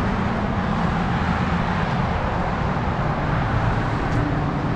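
Steady road-traffic noise: a continuous even hiss and low rumble with no single event standing out.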